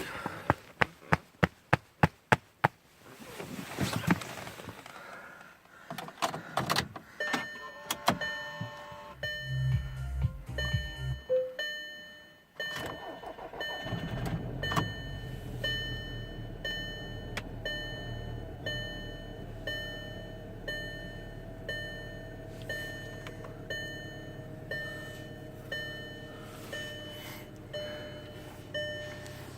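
Volkswagen Passat 2.0T turbocharged four-cylinder petrol engine cold-started: a series of sharp clicks, then a dashboard chime beeping about once a second as the ignition comes on. About thirteen seconds in the engine catches and settles into a steady idle, with the chime still beeping over it.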